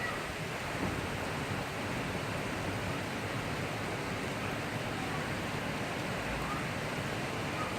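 Heavy rain falling in a thundery shower, a steady even hiss with no thunder claps.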